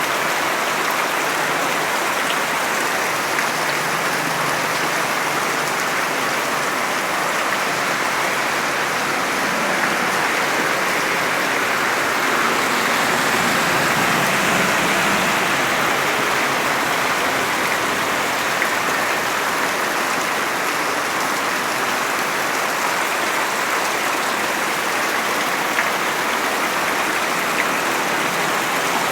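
Heavy rain falling steadily, a dense, even hiss of downpour on surfaces.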